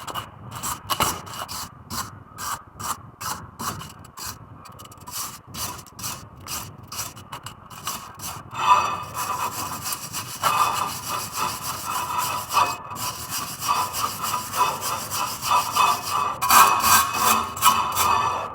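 Hand-tool work on the brake: short scraping strokes, about two or three a second, giving way at about the halfway point to denser, near-continuous rubbing.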